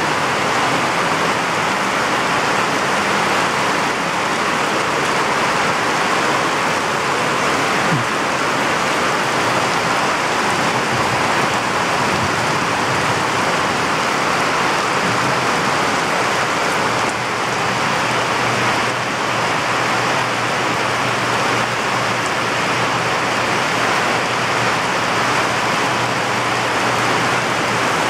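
Heavy rain falling in a steady downpour, a dense, even hiss.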